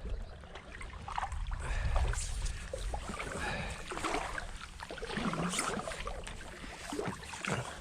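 Kayak being paddled and manoeuvred in the water, with paddle splashes and scattered knocks against the hull.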